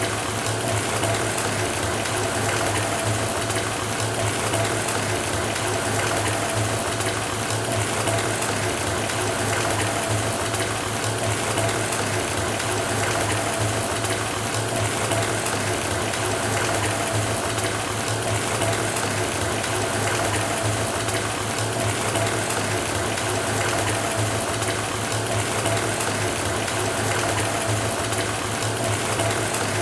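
Water running steadily from a faucet into a filling bathtub: a constant rushing splash with a steady low hum underneath.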